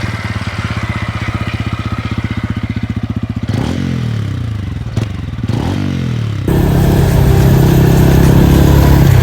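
TVS Ronin's 225 cc single-cylinder engine idling with an even pulse, then revved twice, each time the pitch dropping back to idle. About six and a half seconds in, the sound switches abruptly to a louder, steady drone.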